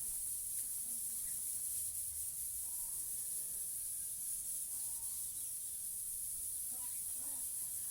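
Steady high-pitched hiss, with a few faint, short chirps from parrots.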